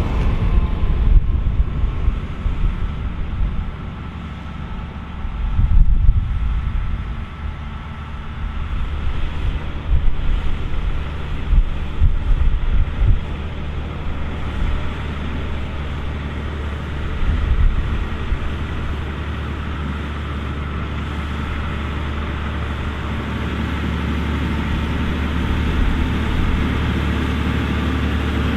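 John Deere 7230R tractor and AVR Spirit 9200 potato harvester running together as a steady low machinery hum. Wind buffets the microphone in gusts through the first half, then the hum carries on steadily.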